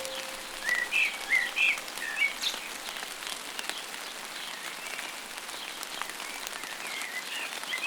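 Steady patter of rain with birds singing over it: a quick run of short, high chirps about a second in, and fainter chirps near the end.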